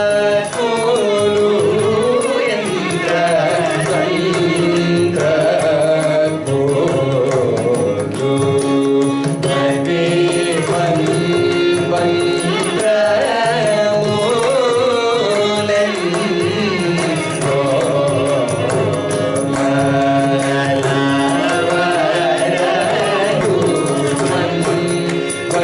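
Carnatic vocal music: singing that bends and oscillates between notes, over a dense, steady run of mridangam strokes.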